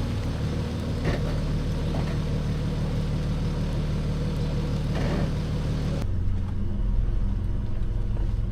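Diesel Jeep Gladiator's 3.0 EcoDiesel V6 running at low, steady speed while crawling a rocky trail, with a couple of brief knocks about one and five seconds in. About six seconds in the sound changes abruptly: the higher hiss drops away and only the low engine drone remains.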